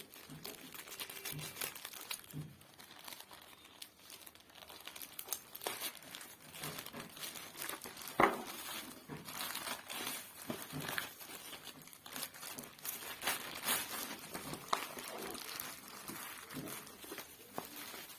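Packaging being opened and handled by hand: crinkling and rustling with scattered small clicks, and one sharper knock about eight seconds in.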